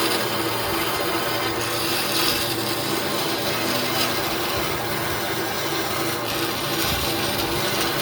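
A power tool working wood, running steadily with a continuous abrasive noise and a faint motor hum.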